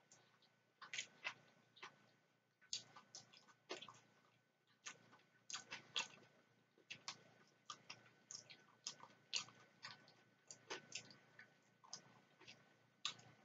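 Close-up eating sounds of macaroni salad being chewed: quiet, irregular mouth clicks and smacks, about two or three a second, with a metal fork scooping in a plastic container.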